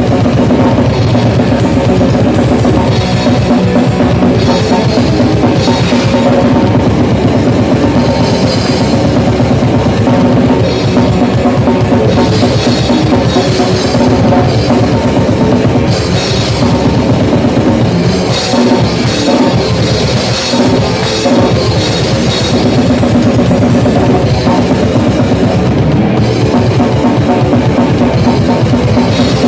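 Rock band playing loud and without a break, led by a full drum kit with bass drum and cymbals.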